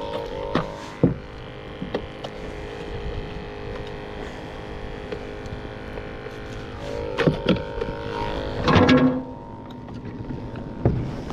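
Steady hum with scattered knocks and clatter from handling gear in a kayak, loudest in a short burst about nine seconds in.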